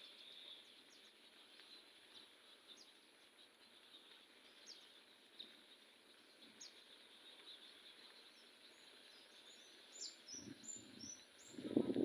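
Faint outdoor ambience with birds chirping: short, high calls scattered throughout, coming quicker near the end, over a steady high hiss. A louder low rumble starts just before the end.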